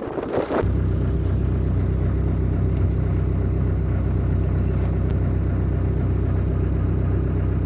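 An engine running steadily at a constant low hum, starting about half a second in.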